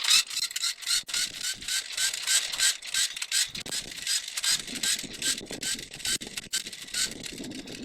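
Battery-powered toy bubble gun running as an air pump, its small motor and plastic gear train clicking with short rising chirps about three times a second.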